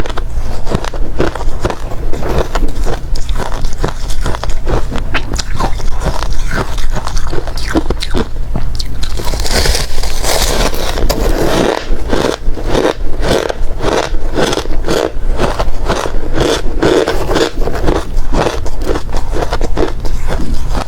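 Hard ice being bitten and chewed close to the microphone: a dense run of loud, sharp crunches and cracks. About ten seconds in there is a brief hissy, scraping stretch.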